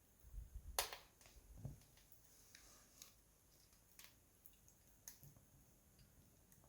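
Wood fire crackling, with a few sharp pops spaced unevenly; the loudest comes about a second in.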